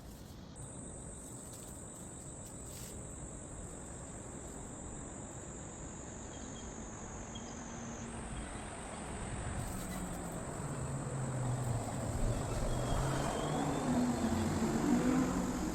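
Insects trilling in one steady high tone, with a motor vehicle that grows louder from about ten seconds in as it approaches.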